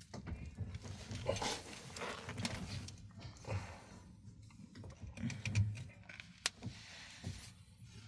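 Irregular scraping, rubbing and short knocks from hands-on work fitting a drain pipe.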